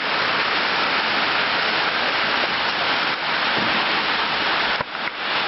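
Heavy rain pouring down: a steady, dense hiss that dips briefly near the end.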